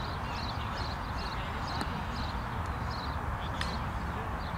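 A bird chirping over and over in short high phrases against a steady rumble of wind on the microphone; a single sharp click sounds about three and a half seconds in.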